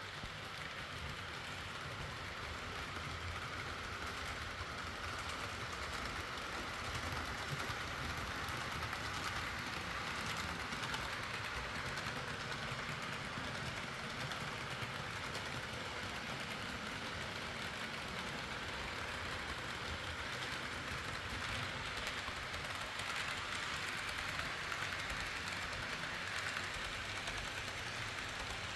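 HO scale model train running along its track: a steady whirring rattle of the motor and wheels on the rails, growing a little louder twice.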